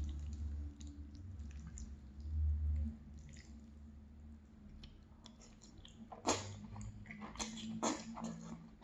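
Close-miked chewing of a mouthful of linguine in tomato sauce, with soft wet mouth sounds. A few sharp wet clicks and smacks come near the end.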